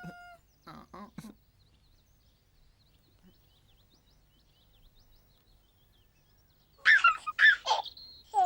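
Faint birdsong chirping over near-quiet Teletubbyland ambience, with brief high-pitched character vocal sounds about a second in and a louder burst of gliding, high-pitched character voices near the end.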